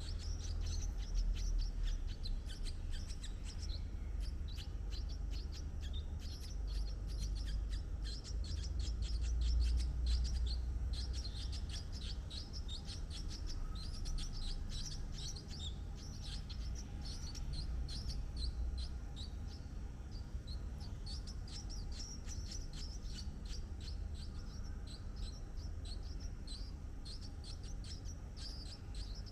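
Small birds chirping rapidly and continuously, many high, thin notes a second, over a low rumble that swells around ten seconds in.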